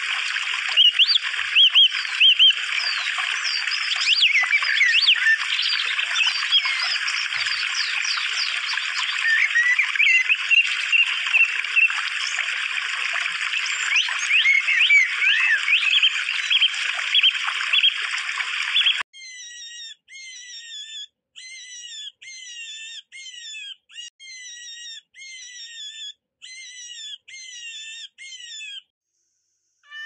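Many birds chirping and whistling over one another in a busy chorus. About two-thirds of the way in it cuts to a quieter series of separate short calls, one or two a second, each falling or arching in pitch.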